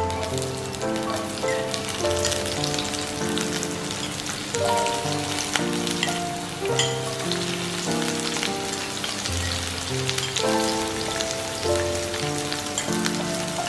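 Diced onion and green pepper sizzling in hot oil in a cast iron skillet, a steady crackling hiss, under background music of held chord notes that change every second or so.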